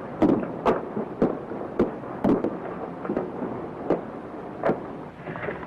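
A series of short, sharp knocks at uneven spacing, roughly two a second, over the steady hiss of an old film soundtrack.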